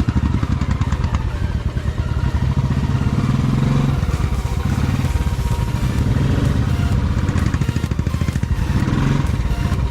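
Royal Enfield Classic motorcycle's single-cylinder engine running steadily while being ridden, its rapid exhaust beat even throughout.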